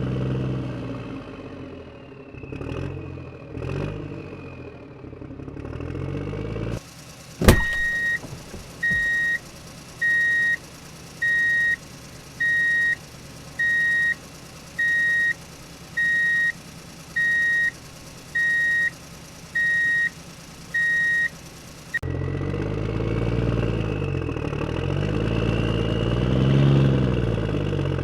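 Truck engine running, its pitch rising and falling. After a sharp click, a reversing alarm beeps at one steady pitch about once a second, some fourteen times, before the engine sound returns with more swelling revs.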